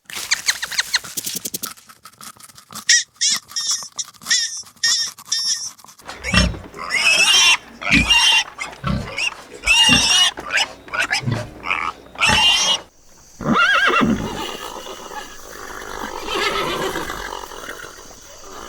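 Farm animals calling, several different calls in turn. A quick run of clicks opens it, then a string of short high calls, then louder calls that waver in pitch with low thumps under them. A steady high tone joins the calls near the end.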